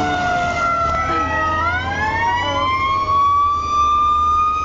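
Emergency vehicle siren in a slow wail: its pitch falls, then about a second and a half in it climbs steadily and holds high near the end.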